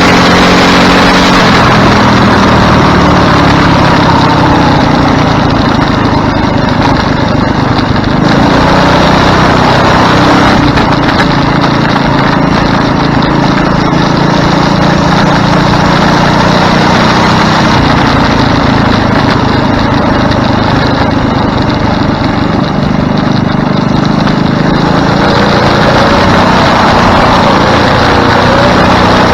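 Go-kart's small engine running loud under way, its pitch rising and falling several times as the kart speeds up and slows.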